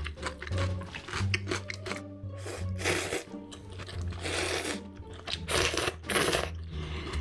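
Background music with a steady bass line over close-miked mukbang eating: several loud crunchy bites and chewing, the loudest bursts in the second half.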